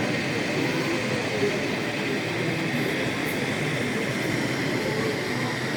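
Steady hubbub of many people talking at once in a large hall, blurred into one even din.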